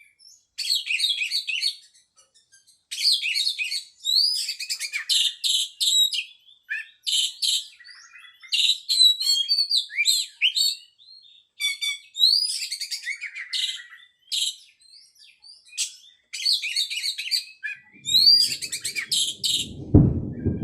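Oriental magpie-robin singing: a rapid, varied run of high chirps, trills and whistles in phrases of a second or two with short pauses between. Near the end a low rumble comes in under the song.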